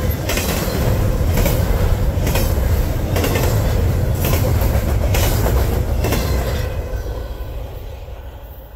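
Double-stack intermodal well cars of a freight train rolling past at speed: a steady rumble with wheelsets clicking over the rail joints about once a second. The sound fades away over the last couple of seconds as the end of the train passes.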